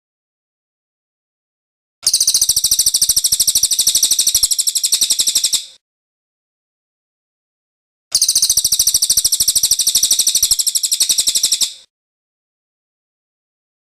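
Cililin bird singing its rolling song: a high, very rapid trill of evenly repeated notes, given in two bouts of about three and a half seconds each with silence between.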